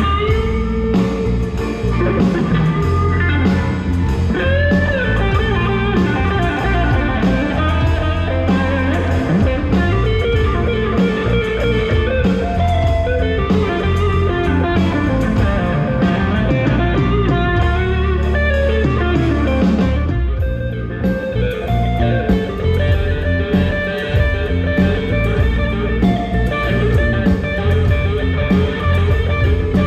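Live soul/R&B band playing an instrumental passage: an electric guitar plays a lead line with bent notes over bass and a drum kit keeping a steady beat. About twenty seconds in, the cymbals drop out briefly before the full kit returns.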